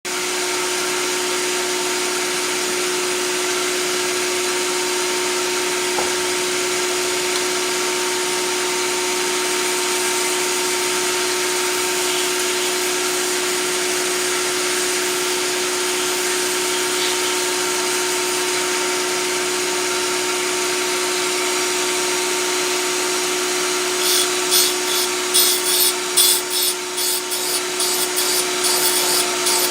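Sharpening machine (WTG-1 dry tool grinder) running with a steady hum and hiss. About 24 s in, an uneven, fast-pulsing grinding sound sets in as a blade edge is worked against the grinding wheel.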